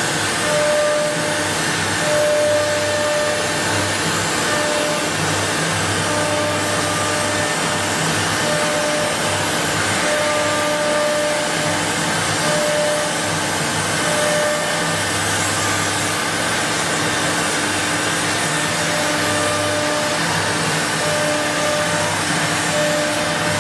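Two-spindle woodworking CNC router running: a steady motor and air hiss, with a hum that starts and stops every second or so as the machine moves.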